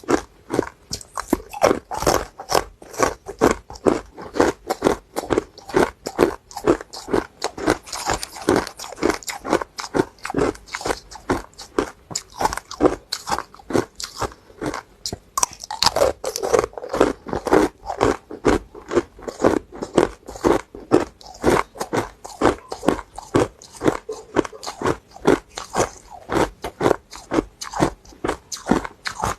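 Hard ice being bitten and chewed close to the microphone: a rapid, unbroken string of sharp crunches, several a second.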